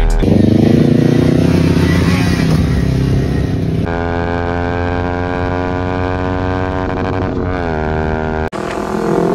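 Motorcycle engine running hard under throttle. Its pitch rises just after the start, then holds steady, then falls and recovers about seven seconds in, and the sound cuts abruptly twice.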